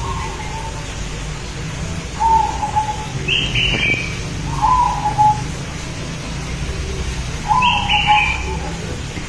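Spotted dove cooing as a lure call, short coos repeating every two to three seconds over a steady low hum. A higher, shorter bird call comes in twice, about three and a half and eight seconds in.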